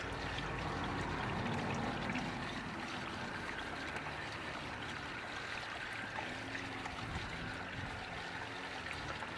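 Hose water running down through guttering and pouring steadily into a recycling box as it fills.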